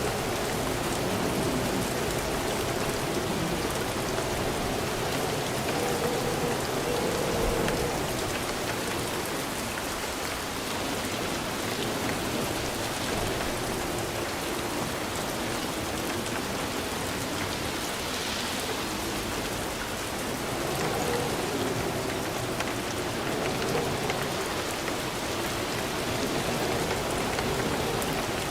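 Steady rain falling: an even hiss of many drops striking a surface.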